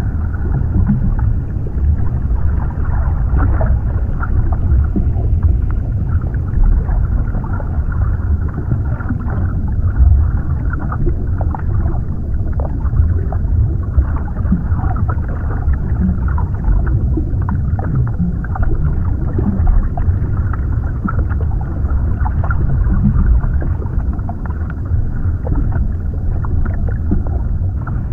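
Underwater ambience: a steady deep rumble of water with faint bubbling and small scattered clicks.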